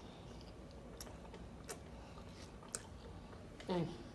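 A person chewing a mouthful of food close to the microphone, with a few soft, sparse mouth clicks and no loud crunching. Near the end comes a short falling vocal sound, the loudest moment.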